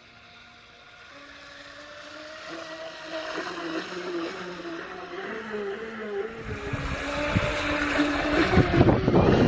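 The RC surfer's brushless electric motor (a 4074-size, 2000 kV motor on a 180 A controller and a 5S battery) spinning its propeller. Its whine wavers and climbs in steps as the throttle is worked up, getting steadily louder. A loud rushing noise joins about six and a half seconds in and keeps growing.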